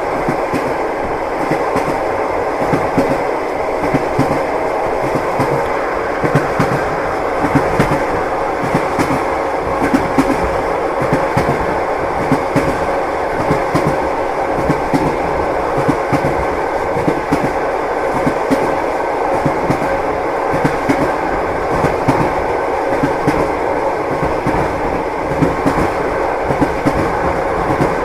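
Train wheels clattering over the rail joints, with a steady running rumble and a continuous stream of sharp clicks.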